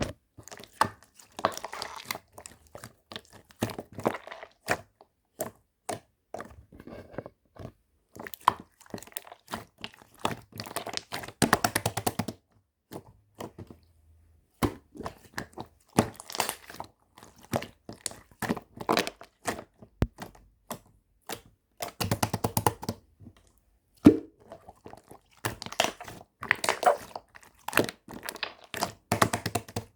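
Close, irregular crunching, crinkling and tapping from hands working some material, in clusters with short pauses.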